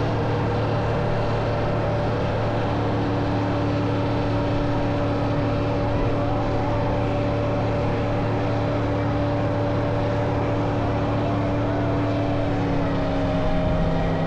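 Car engine running steadily at a held, constant speed, its pitch shifting slightly near the end.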